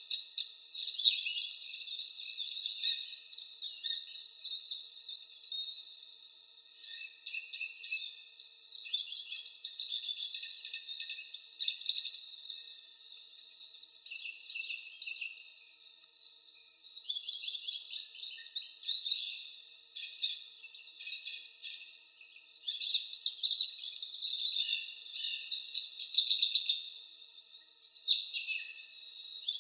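Several songbirds singing, with short, high-pitched phrases and chirps overlapping one another and swelling into louder clusters every few seconds.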